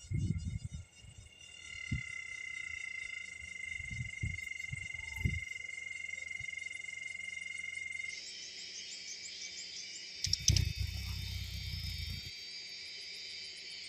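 A steady, high, droning insect chorus that turns into a denser, ticking buzz about eight seconds in. Low thuds come near the start, a few seconds later, and again for about two seconds past the middle.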